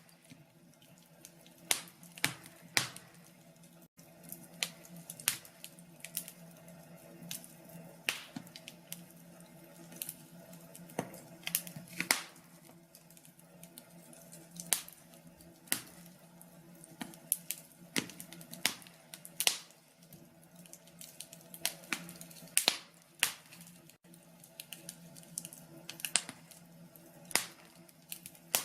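Wood fire crackling in a fireplace: irregular sharp pops and snaps, sometimes several a second, over a faint steady hum.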